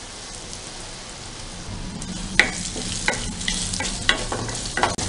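Garlic, curry leaves and spices sizzling in hot coconut oil in a stainless steel pan. From about two seconds in, a wooden spatula stirs them, clicking and scraping against the pan.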